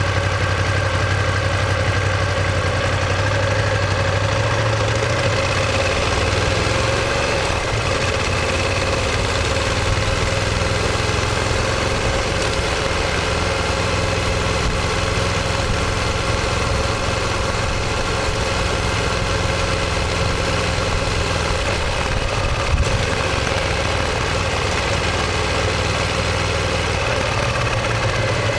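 Ducati Monster 1200S's L-twin engine and exhaust running at a steady, low engine speed, with a short thump about 23 seconds in.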